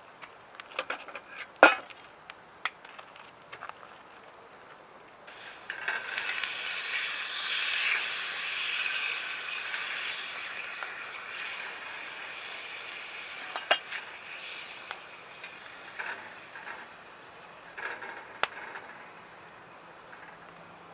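Ingredients hitting hot oil in a small dutch oven: a sizzle that starts suddenly about five seconds in and slowly dies down. Clinks of a utensil against the pot come before it and twice during it.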